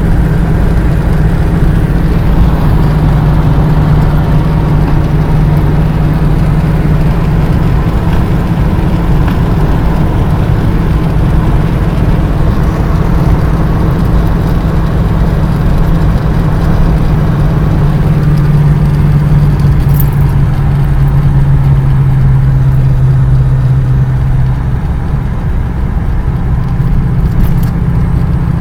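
Motor vehicle engine running steadily with a loud low hum, which sinks slightly in pitch in the second half before settling.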